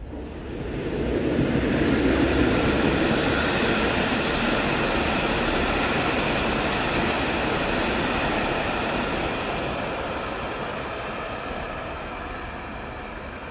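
Passenger train running past: it swells to its loudest about two seconds in, stays steady with a faint tonal whine over the rumble, then slowly fades as it moves away.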